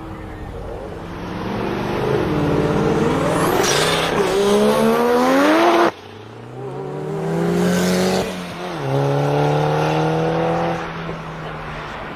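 Twin-turbo Mazda RX-7's twin-rotor rotary engine accelerating hard, its pitch climbing steeply, dropping sharply about halfway through and again around two-thirds through, then climbing once more.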